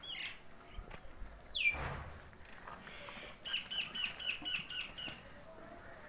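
Birds calling: a short falling call at the start, a louder call sliding steeply down in pitch about a second and a half in, then a quick run of about eight repeated chirps, roughly five a second, from about three and a half seconds in.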